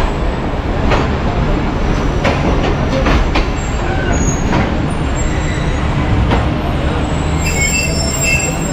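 Passenger train coaches rolling slowly into a station platform: a steady low rumble with irregular sharp clicks of the wheels over rail joints. Thin high squeals come in near the end as the train brakes to a stop.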